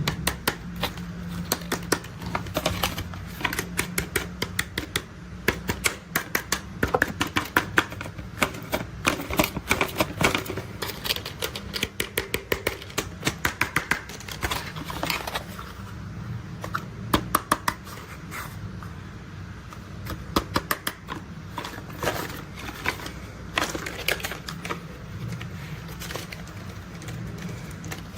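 Plastic toy construction vehicles being handled, clicking and rattling in quick runs of sharp clicks over a low steady hum.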